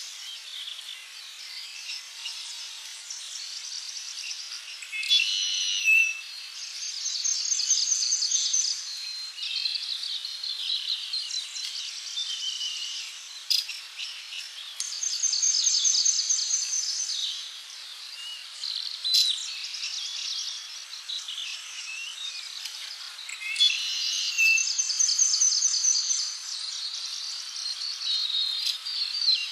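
Several birds chirping and calling, with high-pitched rapid trills of quickly repeated notes that come in bouts of a couple of seconds, about every eight seconds, over a faint steady hiss.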